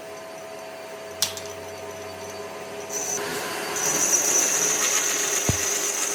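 A handheld power tool working wood: quieter handling with a single sharp click, then the tool starts up about three seconds in and runs steadily with a high whine.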